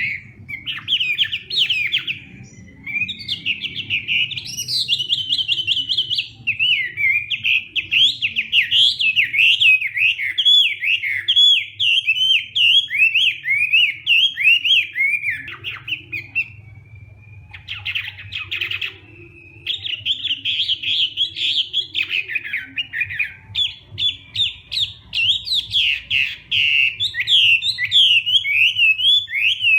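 Chinese hwamei singing a long, fast run of varied whistled phrases. The song breaks off briefly about sixteen seconds in, then resumes.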